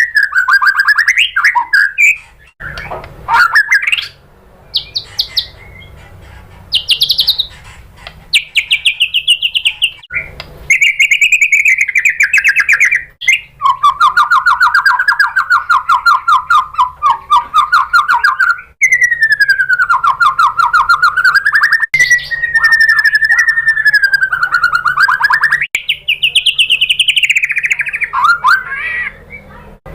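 White-rumped shama singing in long, rapid trilled phrases of several seconds each, the pitch gliding up and down, with short breaks between phrases.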